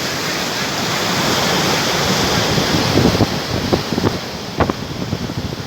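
Heavy rain falling steadily, a dense even hiss, with a few sharper individual hits over the last couple of seconds.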